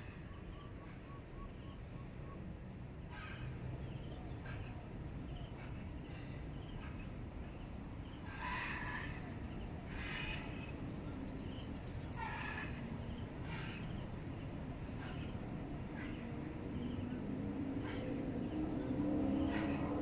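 Birds calling in the trees: short chirps and call phrases, scattered at first and coming in busier clusters from the middle on. A low rumble builds under them near the end.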